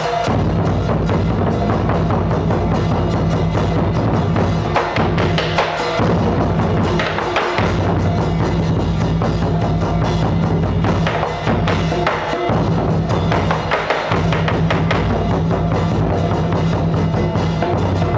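Music played on drums and a wood block, dense strikes over a steady low drone that breaks off briefly a few times.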